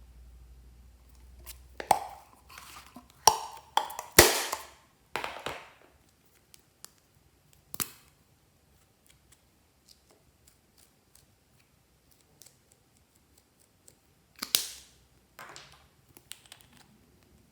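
Glossy slime being squeezed and pulled by hand, making sticky clicks, pops and squelches. They come in a busy run from about two to six seconds in and again near the end, with a quiet stretch between.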